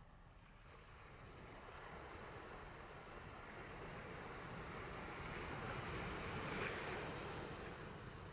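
Rushing beach ambience of wind and surf, swelling gradually to a peak about seven seconds in and then easing.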